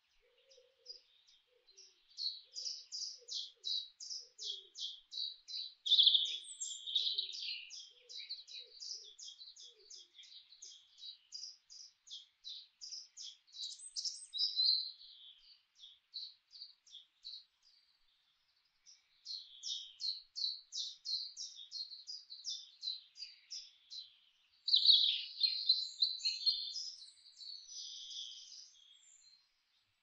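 Songbirds singing in a forest: rapid strings of high chirping notes, about five or six a second. The song comes in two long stretches with a short pause in the middle, and the loudest notes arrive near the end.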